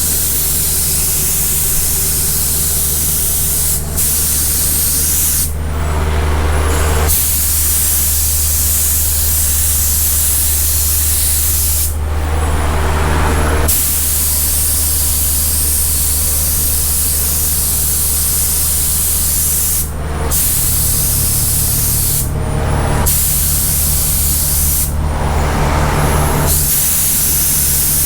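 Spray gun hissing as it sprays primer onto fiberglass bumper filler areas, the hiss stopping briefly several times between passes. A steady low hum runs underneath.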